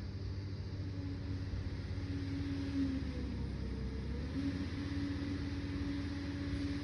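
Liebherr 746 crawler dozer's diesel engine running steadily under work. Its note sags briefly about halfway through, then comes back up.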